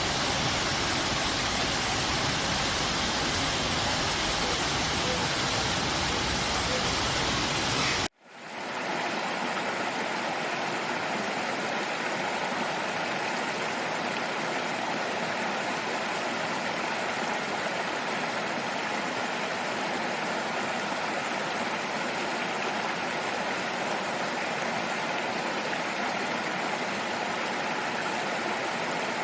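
Steady rush of running water. About 8 s in it cuts out abruptly for a moment, then fades back in thinner, with less bass.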